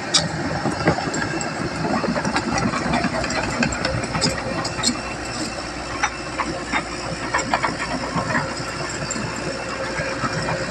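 Heavy diesel machinery running: a steady engine rumble with hiss and scattered short knocks.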